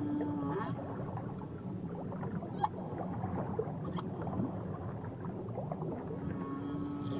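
Whale song heard underwater: a held low call with higher stacked tones right at the start and again near the end, with a few clicks in between, over a steady low underwater rumble.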